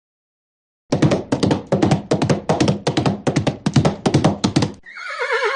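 Horse hoofbeats sound effect: a rapid clip-clop of hard knocks, about five a second, starting about a second in. Near the end a horse neighs with a wavering, falling pitch.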